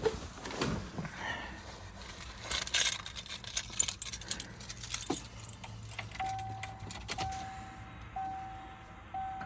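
Car keys jangling and clicking as they are handled, then the car's warning chime beeping as an even tone about once a second, starting about six seconds in.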